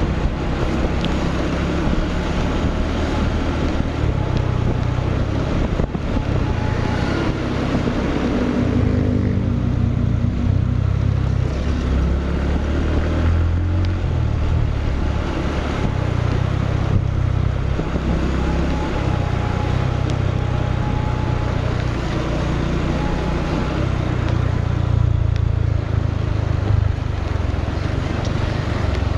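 Motorcycle engine running on the move, a continuous low rumble that rises and falls with the throttle.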